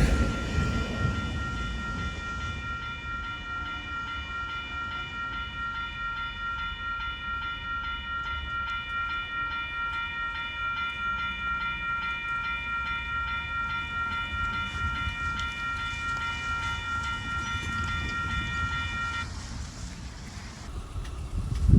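A train rolling past with a continuous low rumble, over which a steady high-pitched tone holds unchanged and then cuts off suddenly about nineteen seconds in.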